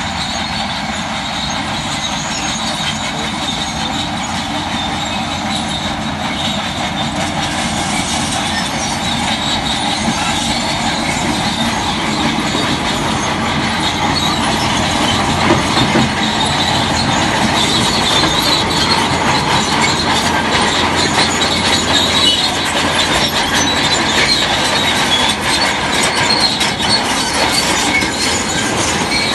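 Crawler bulldozer's steel tracks clanking and squealing over its running diesel engine, growing slightly louder over the stretch.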